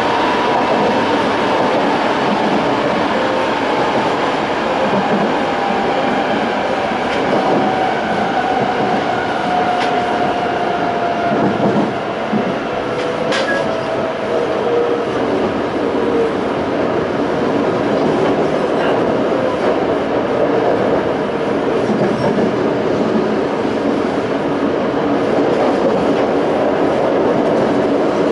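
Toei 5300 series EMU with Hitachi-built Mitsubishi GTO traction equipment, heard running aboard the car: a steady rumble of wheels on rail with a few sharp rail-joint clicks. Over the first half a whine slowly falls in pitch.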